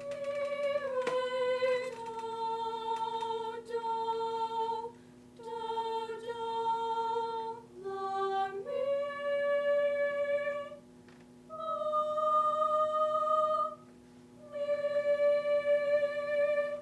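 The second-soprano section of a chamber choir singing its part in unison on solfege syllables: a slow line of long held notes in several phrases, with short breaks between them.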